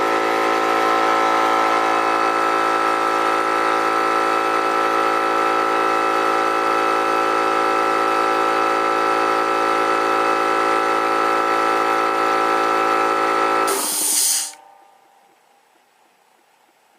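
Harbor Freight electric air compressor running steadily as it pumps up the tank, then shutting off near the end when the pressure switch cuts out at about 103 psi. There is a short hiss of air at the moment it stops, as the unloader releases pressure.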